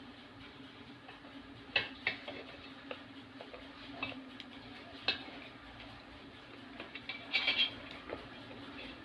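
Scattered light clicks and clinks from handling kitchen utensils or dishes, a few single ones and then a quick cluster about seven and a half seconds in, over a steady low hum.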